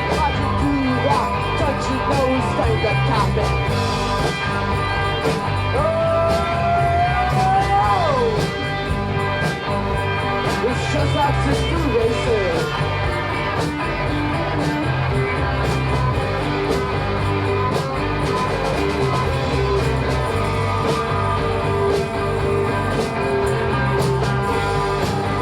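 Live rock band playing an instrumental stretch: electric guitars, organ, bass and a steady drum beat. About six to eight seconds in, a high held note slides slowly upward and then drops away.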